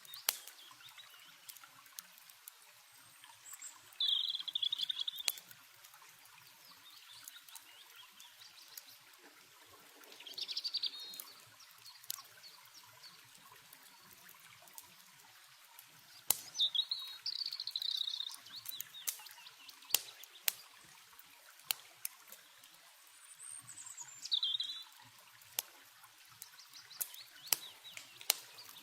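A songbird singing short bright phrases four times, over a steady trickle of water and the sharp pops and crackles of a campfire.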